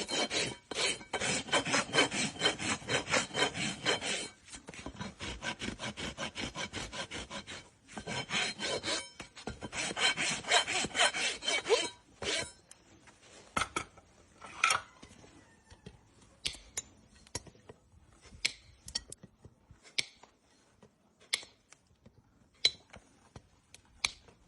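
Farrier's rasp filing a horse's hoof in rapid back-and-forth strokes, softer for a few seconds in the middle, stopping about halfway through. After that come scattered sharp clicks and taps.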